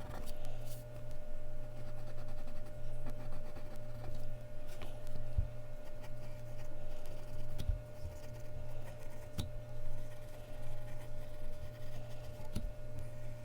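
Mechanical pencil drawing on Bristol paper: a soft continuous scratching with scattered light taps, over a steady low hum.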